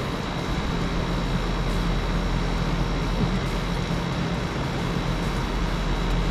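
Piscifun Flame spinning reel being cranked steadily, winding line onto the spool, under a steady low mechanical hum.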